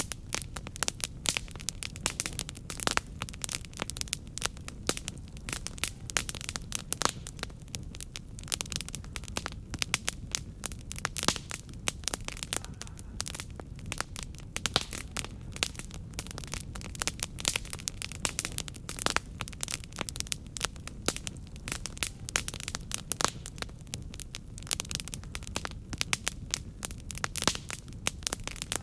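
Wood fire crackling: a dense, irregular run of sharp pops and snaps over a steady low rumble of the flames.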